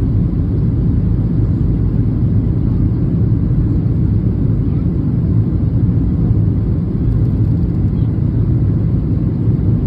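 Steady low rumble of an airliner in flight, the engine and airflow noise heard inside the cabin, even and unchanging throughout.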